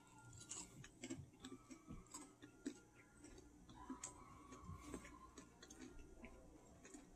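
Faint, scattered crunches and mouth clicks of chewing a milk chocolate bar with puffed rice, over near-silent room tone.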